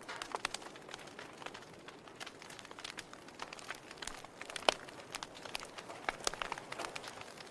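Wood fire burning in a fireplace: irregular crackling and popping of the logs over a soft steady hiss, with one louder pop a little under five seconds in.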